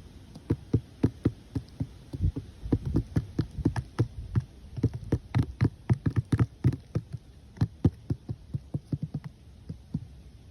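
Rapid, irregular tapping and knocking, several taps a second, starting about half a second in and thinning out near the end.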